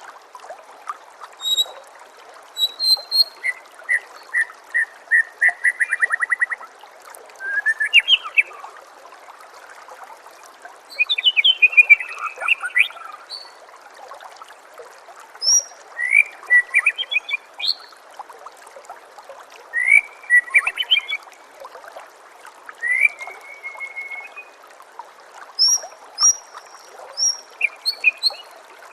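White-rumped shama singing a varied song: short bursts of whistles, trills and rapid repeated notes every second or two. A steady trickle of running water plays under the song.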